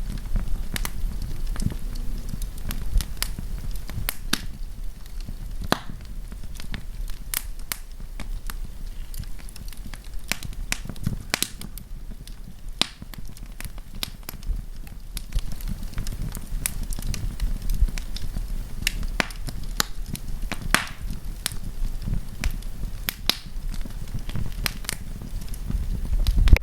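Wood campfire burning, crackling and popping irregularly over a steady low rumble of flame.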